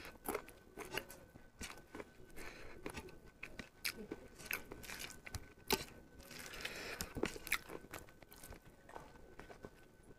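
A person chewing a mouthful of rice and curry with the mouth open, with many short wet smacks and some crunches.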